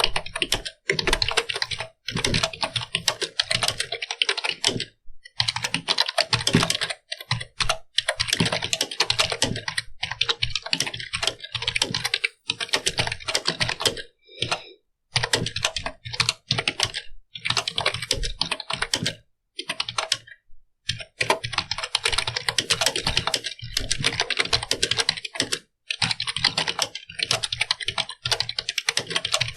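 Computer keyboard being typed on quickly: runs of rapid key clicks broken by a few short pauses.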